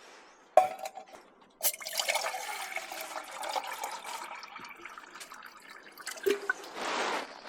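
Water being poured into a pot to make coffee, starting with a click about a second and a half in and running for about four seconds, followed by a knock near the end.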